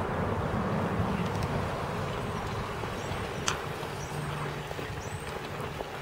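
Steady low outdoor rumble, like distant traffic, with a sharp click about halfway through. Over it, three short high chirps from a small bird, about a second apart.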